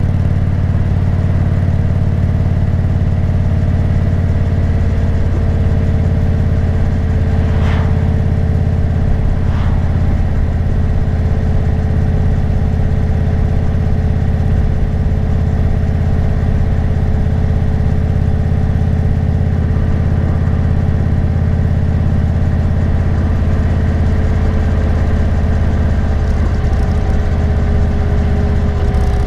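Motorcycle engine running steadily under way at cruising speed, with road and wind noise; the engine note eases slightly lower near the end.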